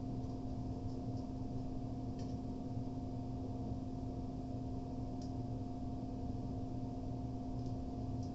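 A steady electrical hum with a constant pitch, with a couple of faint ticks.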